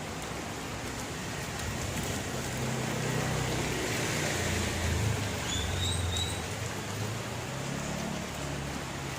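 Steady rain falling, with the low rumble of a passing vehicle swelling up and fading in the middle, and a few short high bird chirps about halfway through.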